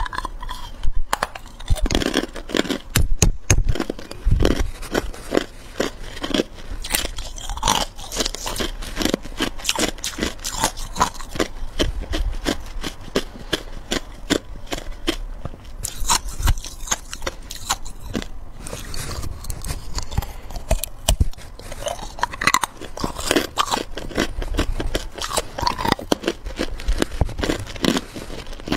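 A person biting and chewing hard clear ice close to the microphone: dense, irregular crunching and cracking as the ice breaks between the teeth.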